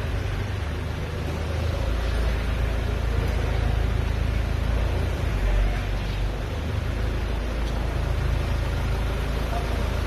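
Steady low rumble of a vehicle engine running, over a constant hiss of background noise.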